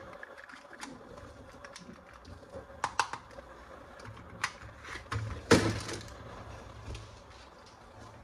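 Plastic toys and packaging being handled: scattered light clicks and taps, with a louder rustling scrape about five and a half seconds in.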